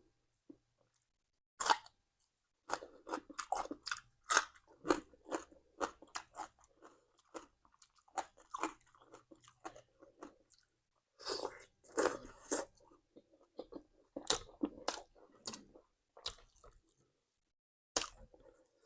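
A person chewing and biting crunchy food close to the microphone, in irregular bursts of crisp crunches with short pauses between mouthfuls.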